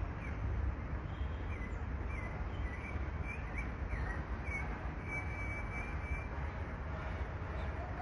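A bird calling in a series of short wavy chirps, then one held whistled note about five seconds in, over a steady low rumble and hiss of outdoor noise.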